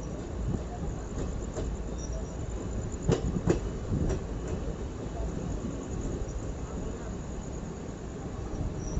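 Passenger train running on the line, a steady low rumble of wheels on rails with two sharp clacks close together a little after three seconds in, as wheels pass over a rail joint.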